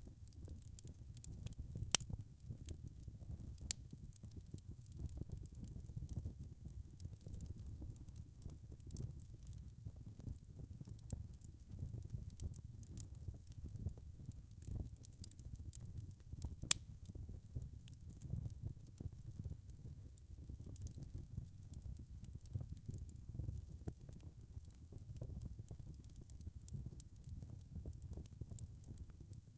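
Wood fire crackling: a steady low rumble of flames with frequent small crackles, and two sharper pops, about two seconds in and just past the middle.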